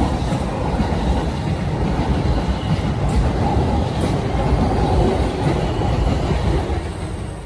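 JR E531 series electric commuter train moving along the platform close by: a steady rumble of wheels on rail, easing off near the end.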